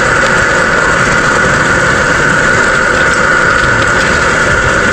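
Camping gas stove burner running with a steady rushing hiss under a pan of chicken legs simmering in soy-based sauce.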